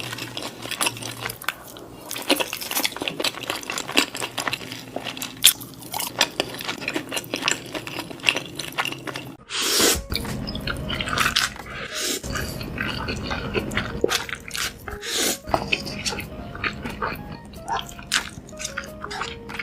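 Close-miked eating: crunchy bites and chewing, with many sharp crackles, and a switch to a different eater's sounds about halfway through.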